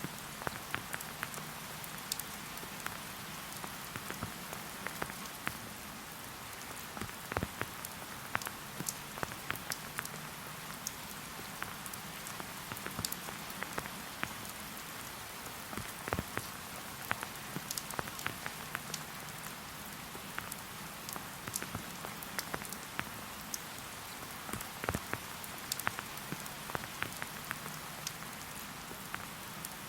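Steady rain falling, an even hiss with many separate drops striking close by at irregular moments.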